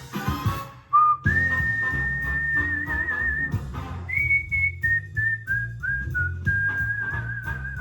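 A clear whistled tune of held notes, one long wavering note followed by a run of short stepping notes, over a backing music track with a steady bass beat. The whistle starts about a second in, after a short stretch of music alone.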